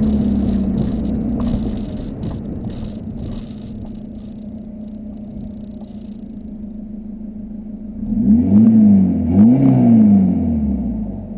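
Volkswagen Golf 2.0L TDI turbodiesel through a 3-inch Cortek exhaust with a high-flow cat, dropping back from a rev to a steady idle, then blipped twice in quick succession near the end.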